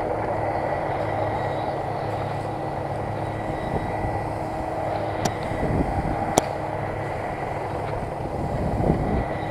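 Zetor tractor's diesel engine running steadily under load, with a thin steady whine above it. Two sharp clicks or knocks come about five and six and a half seconds in.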